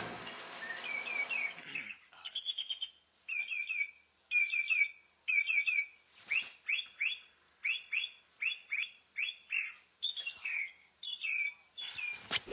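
Bird chirping: short high notes in quick runs of three or four, repeated about once a second.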